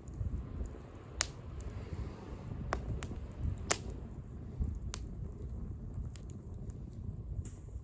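Wood bonfire crackling, with a few sharp pops of burning wood over a low steady rumble.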